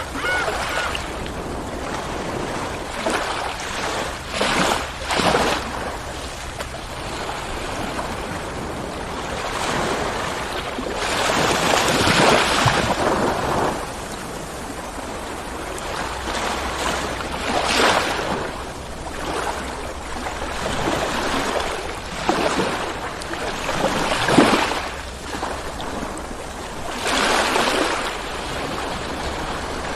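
Ocean waves rolling in and washing onto the shore in a continuous surf wash. It swells and falls back every few seconds, with the biggest surge near the middle.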